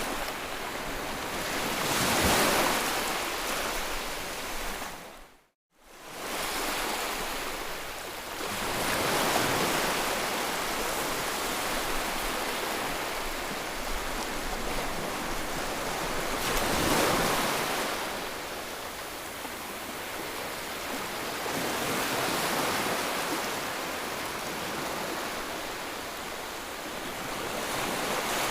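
Continuous white-noise rushing that swells and eases every several seconds, like surf. About five seconds in it fades out to silence for a moment and then fades back up.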